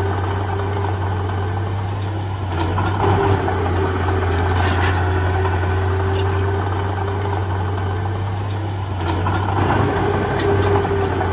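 Heavy diesel earthmoving engine running steadily at low revs, a constant deep hum with occasional short clanks.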